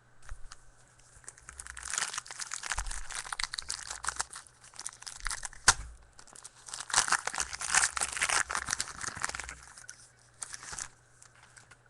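Trading card pack wrapper crinkling and tearing as it is ripped open by hand, in two spells of dense crackle with a single sharp snap about halfway through.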